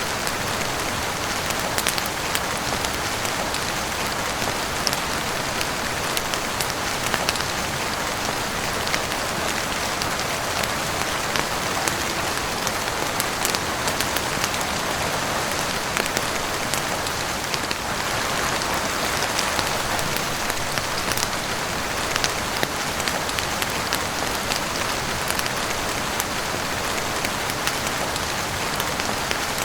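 Heavy rain falling steadily on a roof and windows: a dense, even hiss with scattered sharp drop ticks.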